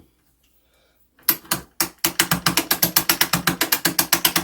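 Ratchet of a clock mainspring winder clicking as the strike-side mainspring is cranked tight: a few single clicks, then a fast even run of about ten clicks a second from about two seconds in.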